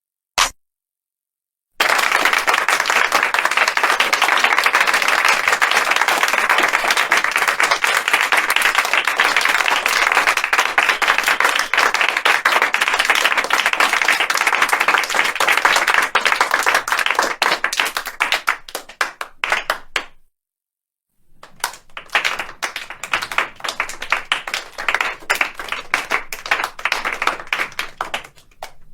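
Crowd applauding, two separate rounds. The first comes in suddenly and dense, then thins to scattered claps and stops; after a short gap a second, lighter round of applause starts and dies away.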